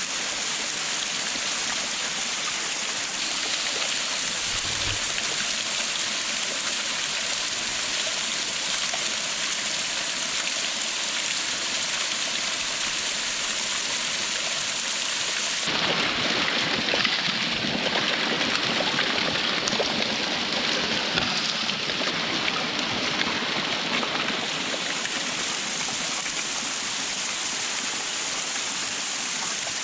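Waterfall: steady rushing of falling water, growing fuller and slightly louder a little past halfway for several seconds before settling back.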